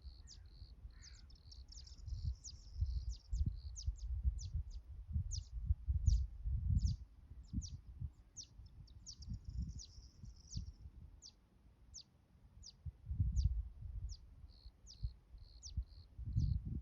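Small birds chirping: short, high, downward-sweeping chirps repeated about twice a second, with a pulsing high trill near the start and end. Irregular low rumbles come and go underneath.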